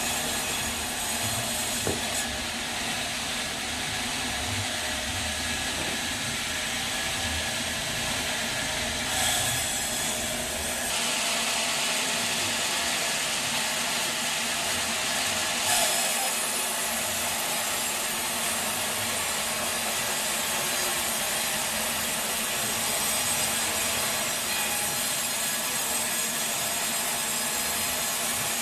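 Sawmill saw running and cutting through a teak log, a steady grinding rasp. About eleven seconds in the low rumble drops away and the cut turns higher and brighter, with a brief louder moment near sixteen seconds.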